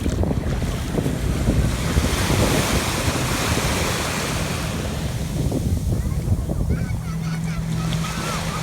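Sea surf washing on the beach, with wind buffeting the microphone. A steady low hum comes in near the end.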